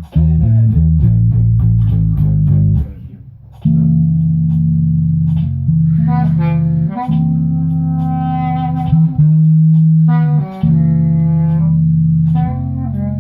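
Bass guitar played with a band in a small room: a quick run of notes, a brief pause, then long held low notes. A higher held melody line comes in about six seconds in.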